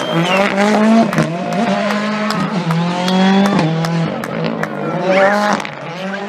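Rally car's turbocharged four-cylinder engine accelerating hard, its pitch climbing and dropping back several times as it shifts up through the gears.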